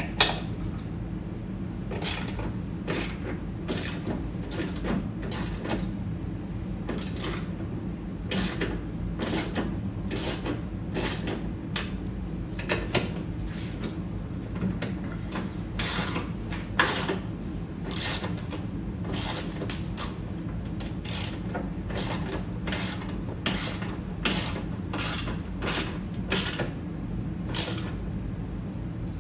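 Socket ratchet clicking in short, irregular runs while turning the bolts of a snow blower's skid shoes, over a steady low hum, with one sharp knock right at the start.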